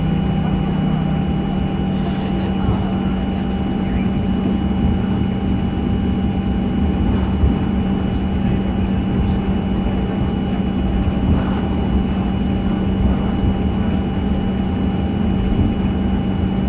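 Steady cabin hum inside a Boeing 737-900 on the ground: a low drone with faint steady whines above it and no change in pitch.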